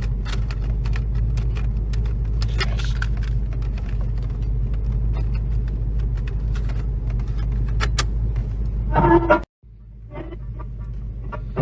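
Steady low engine and road rumble heard inside a moving car, with frequent light clicks and rattles. It cuts off abruptly about nine and a half seconds in, and a quieter rumble then resumes.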